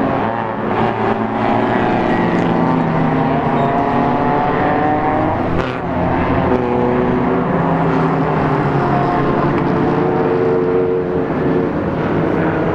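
Engines of several budget race cars running on the track, their pitches rising and falling as they rev and shift, overlapping one another.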